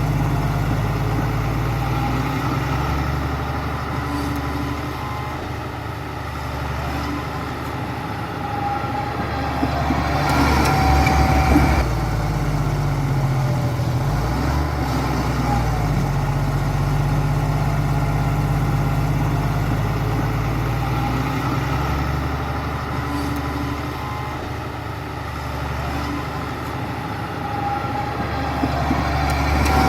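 Heavy diesel engine of a construction machine running continuously, its note shifting as it works. It grows louder and rougher twice, about ten seconds in and again near the end.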